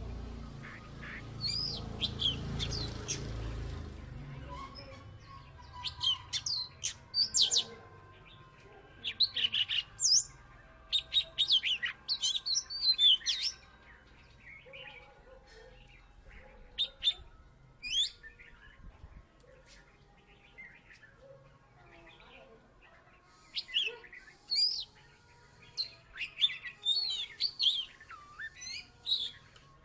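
Oriental magpie-robin singing: bursts of quick, sweeping high whistled notes in phrases, quieter for several seconds mid-way and busy again near the end. A low rumble lies under the first few seconds.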